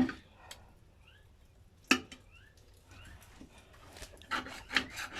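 Knife cutting a cooked pork roast in a dish: a sharp knock of the blade on the dish about two seconds in, and a run of cutting and scraping strokes near the end. Faint short rising chirps, like small birds, sound in the background.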